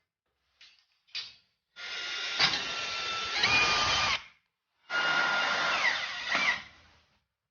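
Electric power tool run twice, about two seconds each time, its motor pitch dropping as it bites into a wooden board. Two short clicks come just before the first run.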